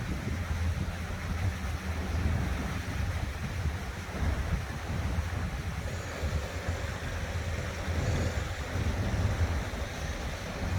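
Outdoor urban ambience: the steady rushing splash of water fountains, with wind buffeting the phone's microphone as a low, uneven rumble. A faint steady hum joins in from about halfway through to near the end.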